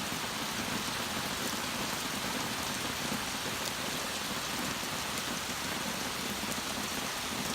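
Torrential rain pouring down and pattering on surfaces in a steady, even hiss.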